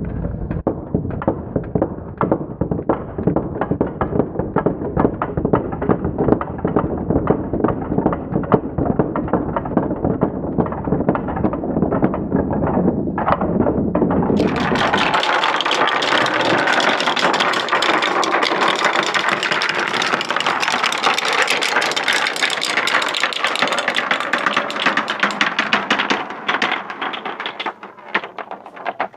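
Many marbles rolling and clattering down a long track ramp in a dense stream of rapid clicks with a low rumble. About halfway through the rumble drops away and the clicking turns brighter and sharper. Near the end it thins out.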